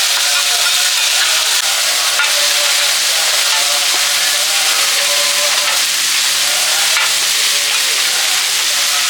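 Food frying in hot oil: a steady, loud sizzle, with a few light knocks about two seconds and seven seconds in.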